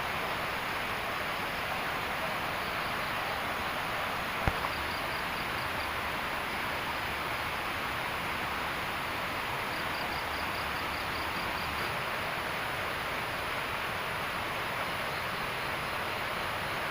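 A steady outdoor hiss at night, typical of a wet forest after rain. Faint rapid insect trills come in twice, and there is a single sharp knock about four and a half seconds in.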